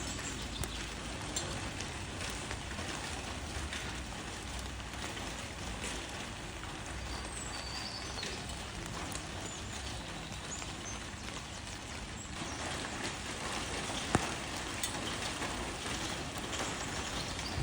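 Rain falling on leaves: a steady patter with scattered single drop ticks, and one sharper drop hit about two-thirds of the way through.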